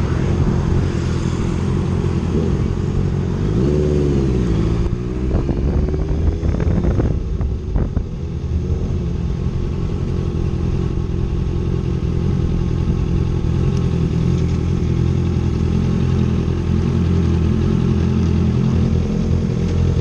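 Motorcycle engine running steadily under way, with a brief rise and fall in pitch about four seconds in and a few knocks shortly after.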